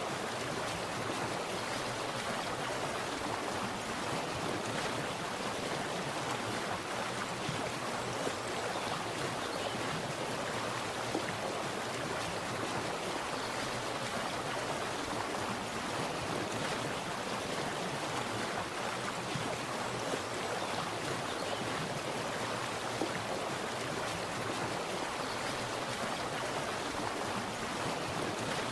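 Water splashing and running steadily in an even, unbroken rush.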